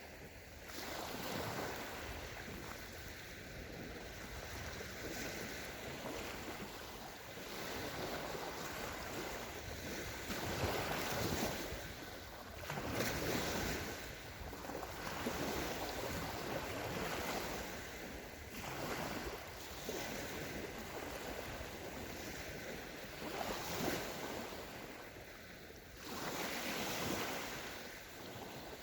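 Small sea waves breaking and washing up a sandy shore, swelling and ebbing every few seconds.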